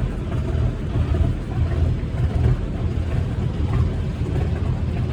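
Houseboat engine running, heard on board as a low, uneven rumble.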